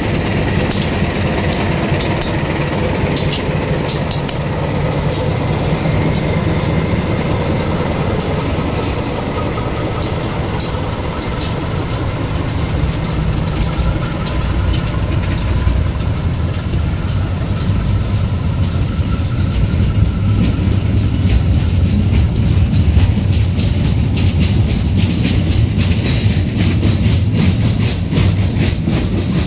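A train running past at close range: a steady heavy rumble with many sharp clicks of wheels over the rail joints, thinning out after about halfway, and a faint high whine from the wheels.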